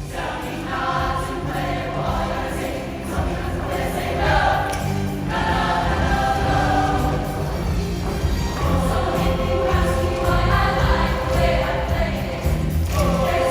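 High school show choir singing in full group over loud instrumental accompaniment with a steady low bass, part of a rock-and-roll medley.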